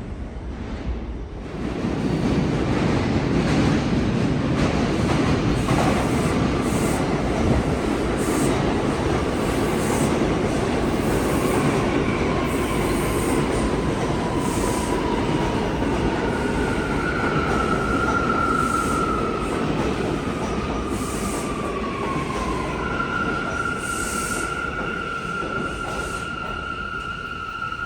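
R179 subway train running on the rails: a loud, steady rumble of wheels and cars that swells about two seconds in. Partway through, high wheel squeal joins it, first gliding down in pitch, then holding a steady note to the end.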